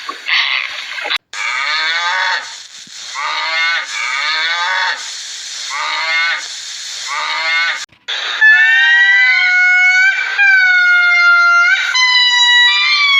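Animal calls from edited clips: after a cut about a second in, a series of drawn-out falling calls, then after another cut, a run of long clear held notes, each about a second long.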